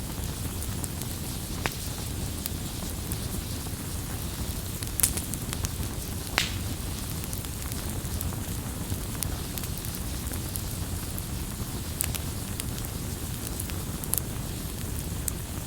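Campfire burning with a steady low rumble and irregular wood crackles, including a few sharper pops, the loudest about five and six and a half seconds in.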